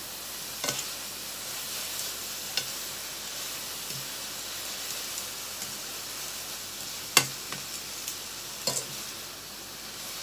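Rehydrated kogome seaweed and carrot strips sizzling in oil in a frying pan as they are stir-fried with a wooden spatula and metal tongs. A steady sizzle runs under a few sharp clacks of the utensils against the pan, the loudest about seven seconds in.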